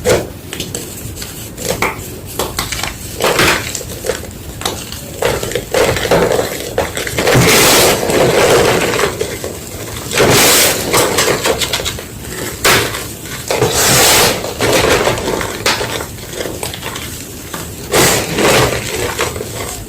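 White gym chalk crunching and crumbling as it is crushed, in irregular crisp crackles. About five louder, longer crunches come a few seconds apart.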